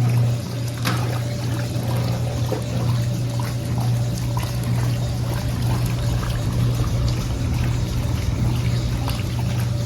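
Brastemp Linea Verona 4 kg washing machine agitating a load of clothes: a steady motor hum over water sloshing in the tub.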